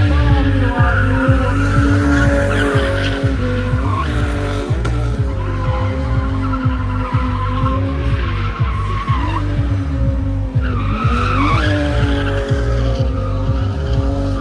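Drift car engine revving up and down several times while its tyres squeal and skid, over loud music with a thudding bass beat.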